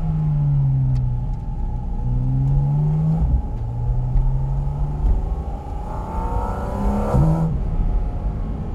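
Porsche 718 Cayman GT4 RS's 4.0-litre naturally aspirated flat-six under way: revs sag, then rise, and drop sharply a little over three seconds in. They hold steady, then climb hard and loud about six seconds in, and fall away suddenly about seven and a half seconds in.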